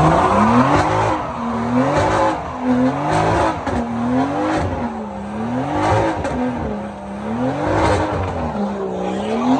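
Car engine at a car meet revving up and falling back over and over, its pitch rising and dropping about once a second, with tyre noise underneath.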